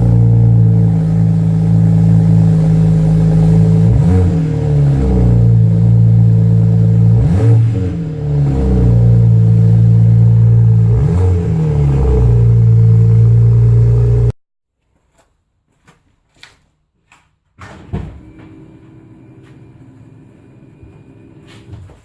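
BMW 335i's turbocharged straight-six running loudly through its exhaust just after a cold start, with three short throttle blips about three and a half seconds apart. It cuts off abruptly, leaving faint clicks and a low knock.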